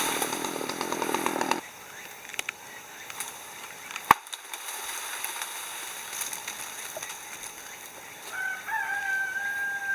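A chainsaw running, which cuts off about a second and a half in. Near the end a rooster crows once, a long call.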